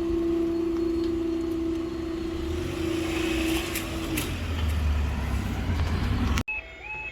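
A train passing a level crossing: a steady droning tone that stops about four seconds in, then a low rumble. Near the end the sound cuts off suddenly and a level crossing's two-tone yodel alarm starts warbling.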